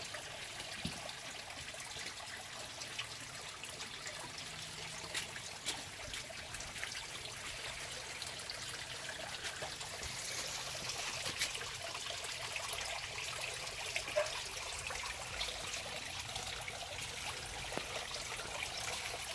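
Water trickling and running steadily, as in a small stream, with scattered small clicks and taps over it.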